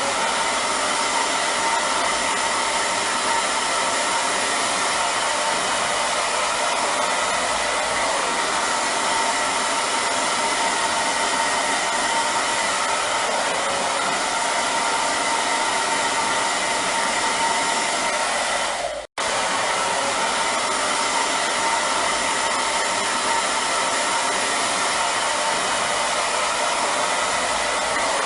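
Hair dryer running steadily, an even blowing rush with a faint motor whine. Just past two-thirds of the way through, the sound cuts out for a split second and picks up again unchanged.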